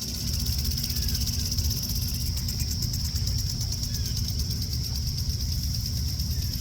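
Crickets trilling in a steady, pulsing chorus, over a low rumble, with a few faint bird chirps.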